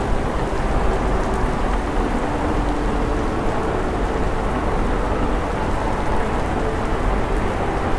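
Steady rain with a constant low road rumble, as from inside a car driving in the rain.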